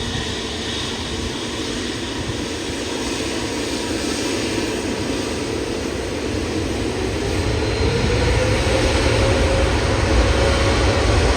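Jet airliner engines running with a steady rumble, then a rising whine about two-thirds of the way in as the sound grows louder.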